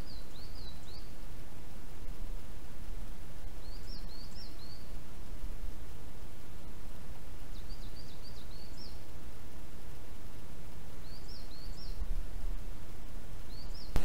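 A songbird singing short phrases of a few quick, high notes, repeated about every three to four seconds, over a steady low background rush of the woods.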